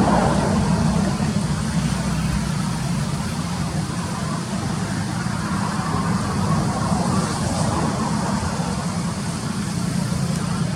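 A motor vehicle's engine running steadily, a continuous low hum with road-traffic-like noise above it.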